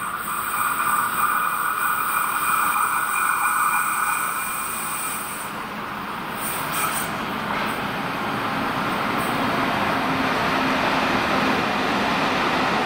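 A ZSSK Siemens Vectron electric locomotive and its passenger coaches running into the station, growing louder as they near. A high steady squeal in the first five seconds gives way to a rising rumble of wheels on rail.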